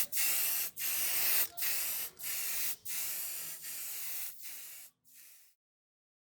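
Paint sprayed in a string of short hissing bursts, about one every 0.7 seconds, growing fainter, then stopping about five and a half seconds in.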